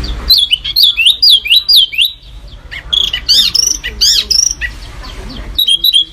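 Songbird singing rapid, sharp whistled notes, the dense 'tembakan' type of song, each note sliding quickly down or up and down. There is a short break about two seconds in and a quieter stretch near the end before the notes resume.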